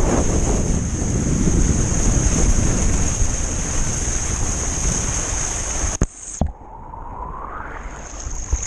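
Loud rushing water with wind buffeting the microphone, a steady high whine above it, cutting off abruptly about six seconds in to a much quieter stretch.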